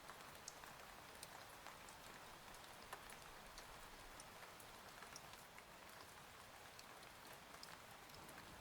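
Soft steady rain with scattered individual drops ticking against a surface, faint.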